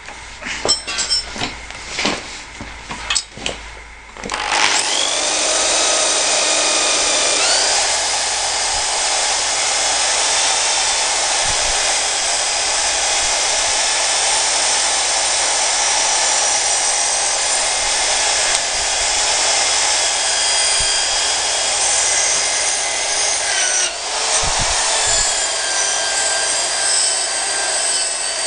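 A few seconds of clattering and knocking, then a handheld power tool starts and runs steadily with a high whine. Its pitch steps up slightly a few seconds after it starts and dips briefly near the end.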